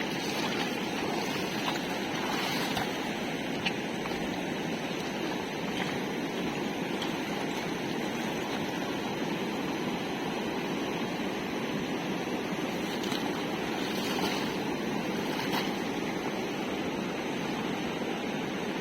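Fast-flowing floodwater of a swollen river rushing steadily, with a few faint ticks.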